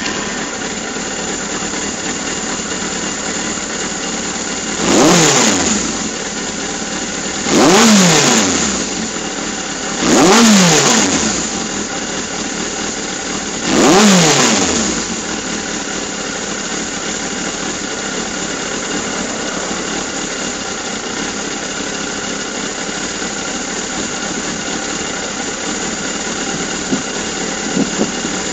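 Suzuki GSX750S Katana motorcycle's inline-four engine idling steadily, blipped four times in the first half: each blip rises in pitch and falls back to idle.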